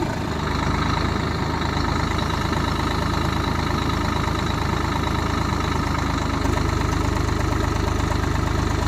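Diesel engine running steadily with no change in revs.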